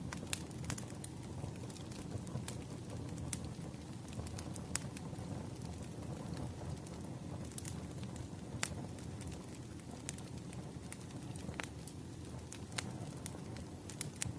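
Crackling wood fire: a low steady rumble with irregular sharp pops and snaps.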